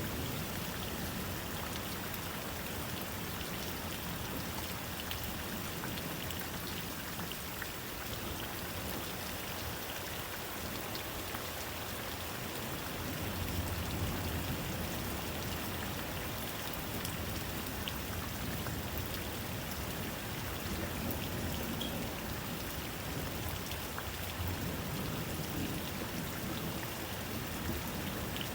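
Steady rainfall pattering on a surface, with scattered individual drops ticking.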